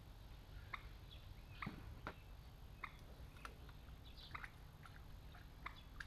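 Short, faint chirps from birds, coming irregularly about once or twice a second, over a low, steady rumble of wind.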